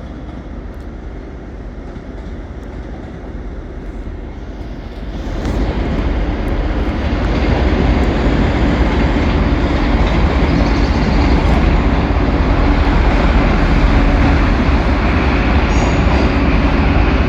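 A train moving through the station close by: its running noise and low hum build up about five seconds in, then carry on loud and steady.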